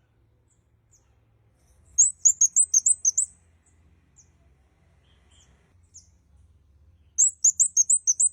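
Kemade kepala merah (red-headed kemade), a small cage songbird, singing: two quick bursts of about eight high, clear chirping notes each, about two seconds in and again near the end, with a few faint single notes between.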